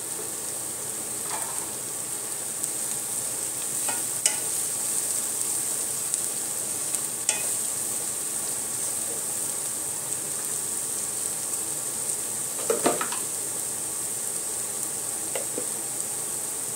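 Onion paste and turmeric frying in hot oil in a metal pot, with a steady sizzle. A wooden spatula stirs and scrapes against the pot, giving a few short knocks, the loudest a double knock about thirteen seconds in.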